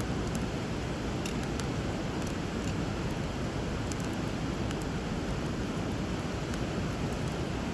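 River water running steadily, with scattered light crackles from a burning wood fire.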